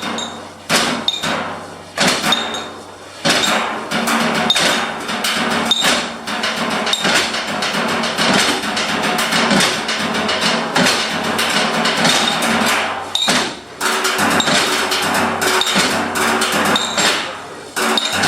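Live percussion music played by striking craftsmen's hammers and tools, a dense rhythm of strikes with a short high metallic ping recurring about once a second.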